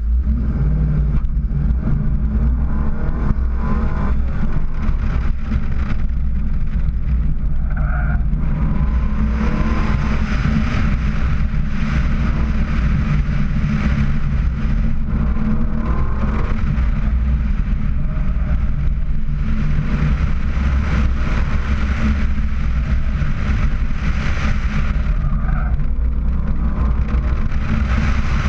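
Car engine pulling hard through an autocross run, its pitch stepping up and down as the driver accelerates and lifts between corners. Wind rushes over the outside-mounted microphone, rising in the faster stretches.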